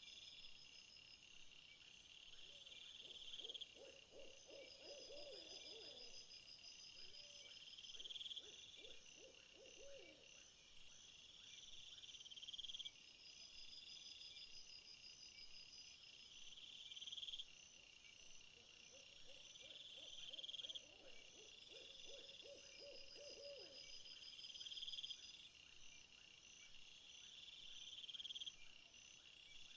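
Faint nature ambience: a high insect chorus swelling and cutting off every three to four seconds, with low, pulsed trilling animal calls in two spells, early on and again past the middle.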